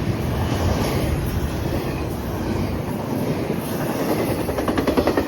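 High-priority intermodal freight train passing at speed: a steady rumble of rolling cars, with a quick run of rhythmic wheel clicks over rail joints near the end.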